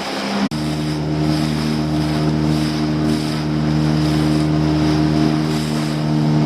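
Small boat's engine running steadily under way, a constant pitched drone. About half a second in, the note breaks off abruptly and picks up again slightly lower.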